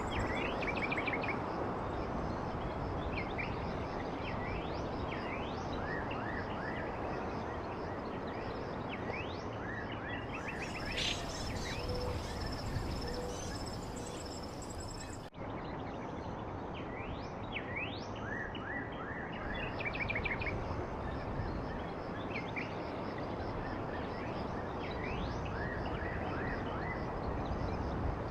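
Small songbirds chirping over a steady background rush, with quick runs of repeated chirps and short rising and falling whistles. The whole sound cuts out for an instant about halfway through.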